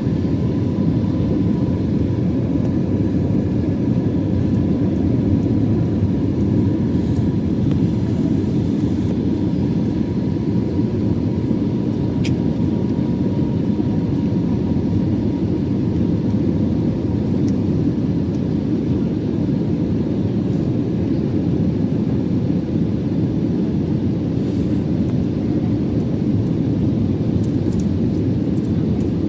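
Airbus A320 jet engines on approach, heard as a steady low rumble with a faint high whine that fades out about halfway through.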